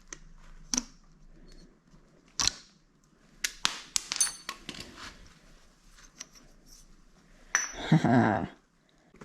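Small metal engine parts and hand tools clicking and clinking as they are handled, with a brief metallic ping about four seconds in. A short laugh near the end.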